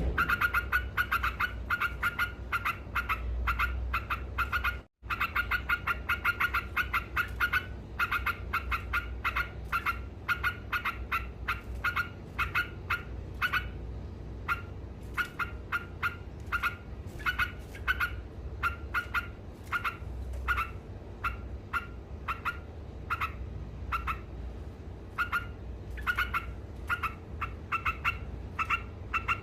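Yellow-vented bulbul (trucuk) calling in a rapid, continuous chatter of short repeated notes, in runs with brief breaks between them. The sound cuts out for an instant about five seconds in.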